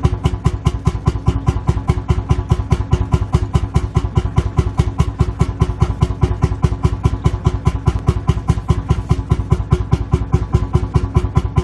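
Lanz Bulldog tractor's single-cylinder two-stroke hot-bulb engine idling, a steady, even rhythm of heavy exhaust beats.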